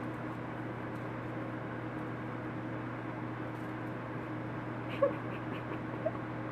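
Steady hum and rush of warm air from a forced-air heater vent, with two short soft chirps from a cockatiel about five and six seconds in.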